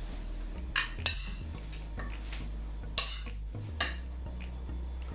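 Cutlery clinking against a plate a few times as food is scooped up to taste, about four sharp clinks over a low steady hum.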